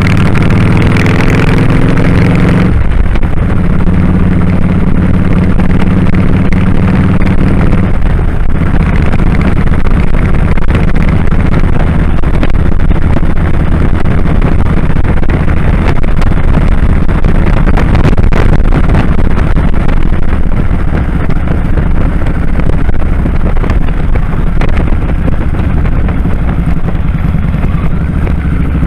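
2001 Kawasaki Drifter 1500's V-twin engine running under way on the road. Its pitch rises over the first couple of seconds, holds steady, and then turns rougher and noisier from about eight seconds in.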